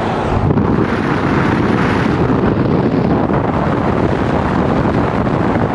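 Steady loud rushing of wind buffeting the microphone, with vehicle noise mixed in.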